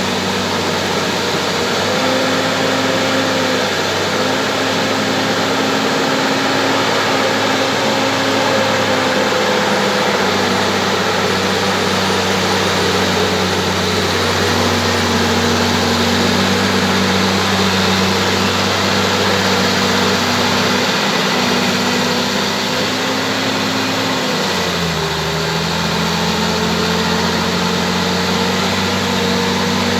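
Bulldozer's diesel engine running steadily under work. Its pitch sags briefly about three-quarters of the way through, then holds a little lower.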